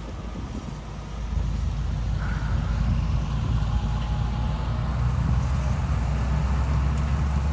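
Engine of heavy farm machinery running with a steady low drone, growing louder about a second in and holding.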